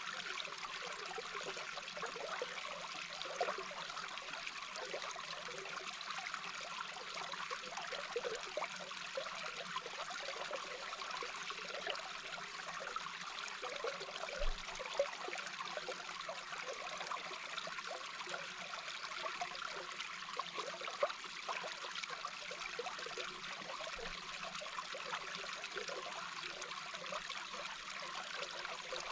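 Small babbling brook heard underwater: a steady, unbroken flow of running water.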